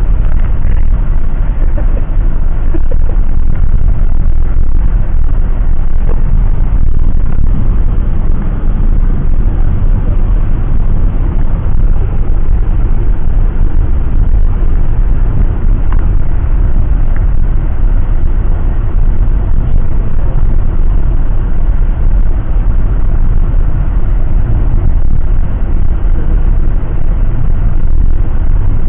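Steady, loud low rumble of a moving vehicle heard from inside the cabin, with no breaks or changes.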